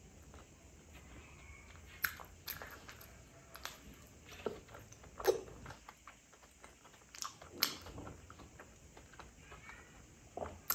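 Close-miked mouth sounds of someone eating Khmer desserts: chewing with scattered smacks and clicks at irregular intervals.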